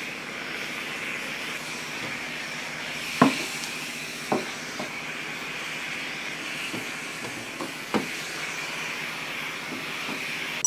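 Conair GS88K garment steamer hissing steadily as it puts out steam, with a handful of short knocks and clicks, the loudest about three seconds in.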